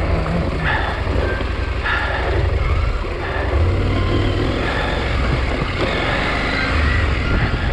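KTM 890 Adventure R's parallel-twin engine running as the bike is ridden, a steady low rumble.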